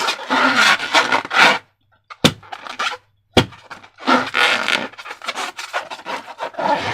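Slime being squished and worked by hand, giving a crackly, sticky squishing. Two sharp snaps come about two and three and a half seconds in, with brief silences around them.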